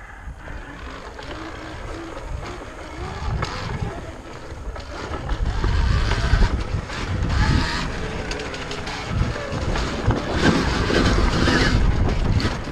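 Wind buffeting the microphone of a rider on an Alta Redshift MX electric dirt bike as it moves off, the rumble growing louder about five seconds in as the bike picks up speed.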